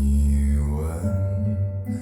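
Recorded music playing through a Focal K2 906 loudspeaker: a slow ballad whose strong, deep bass comes in right at the start, with sustained pitched tones above it.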